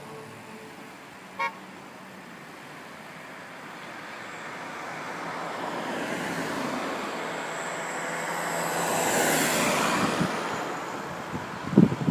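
A road vehicle passing by, its noise swelling over several seconds to a peak and then fading. A brief beep sounds about a second and a half in.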